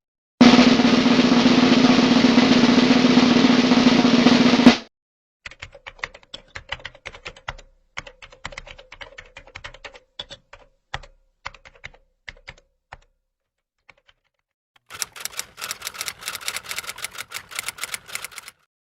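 A snare drum roll lasting about four seconds, then typing on a computer keyboard: scattered keystrokes for several seconds, and near the end a faster, denser burst of typing.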